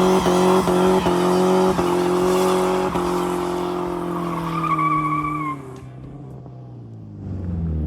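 Straight-piped 2.5 L four-cylinder Dodge Dakota engine held at high revs while the rear tires spin, with a run of sharp knocks over the first few seconds and a brief tire squeal near the five-second mark. The revs drop off suddenly about two-thirds of the way through, then the engine picks up again near the end.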